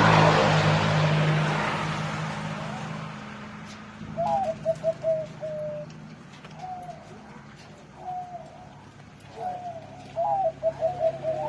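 Zebra dove cooing: several phrases, each a rising note followed by a quick stuttering run of short coos, starting about four seconds in and loudest near the end. A passing vehicle's rush and low hum fade out over the first two seconds.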